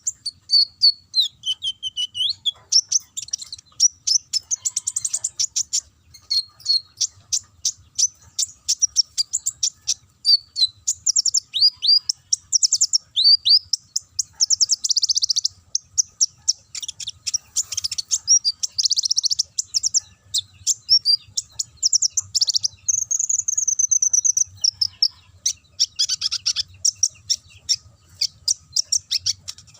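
Kolibri ninja sunbird singing a fast, unbroken stream of high chirps, rapid trills and sweeping whistles in canary-like phrases.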